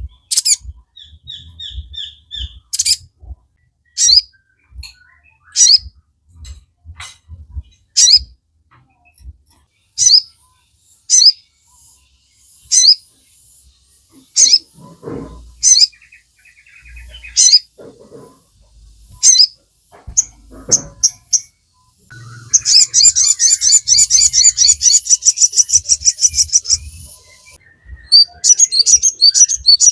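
Sogon songbird calling: sharp high chirps repeat about every second and a half, then give way well past halfway to a long, fast rattling trill, ending in a burst of quick notes.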